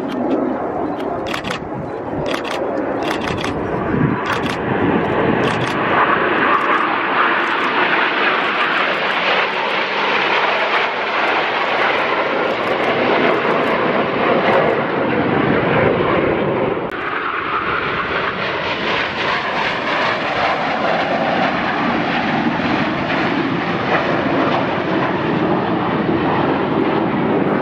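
An aircraft's engine noise, loud and steady for about half a minute, easing briefly about two-thirds of the way through.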